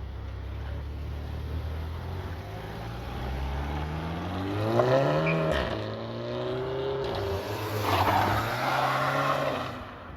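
A car engine pulling away under acceleration: the revs climb for a couple of seconds, drop sharply about five and a half seconds in, then hold steady, with a louder noisy stretch near the end.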